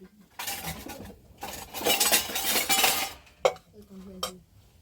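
Dishes and cutlery clattering and scraping for about three seconds, then two sharp clinks.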